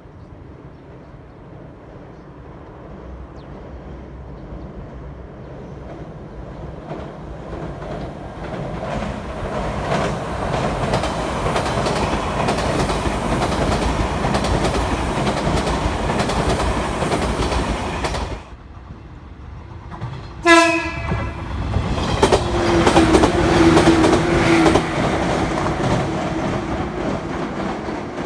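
Electric train passing, its wheels clattering over rail joints, growing steadily louder before cutting off suddenly about 18 seconds in. A short train horn sounds soon after, and another train passes with rail-joint clatter and a steady hum, fading near the end.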